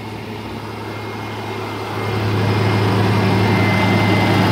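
1990 Toyota 4Runner engine idling smoothly, getting louder about two seconds in, with a thin steady high whine joining it. It is running well again after taking in water and stalling in a deep mud puddle.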